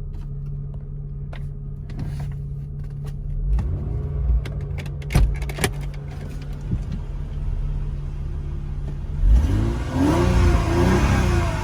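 Supercharged 3.2-litre V6 of a 2002 Mercedes SLK32 AMG idling steadily, with a few sharp clicks and knocks partway through. About nine seconds in it gets louder and the engine is revved in several quick blips, its pitch rising and falling.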